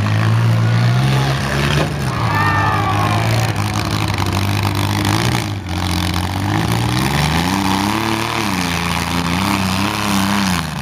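Engines of demolition-derby minivans and mini trucks running and revving, their pitch rising and falling repeatedly.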